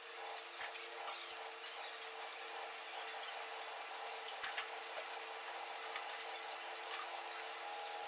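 Steady hum with constant hiss, broken by a few faint clicks and knocks.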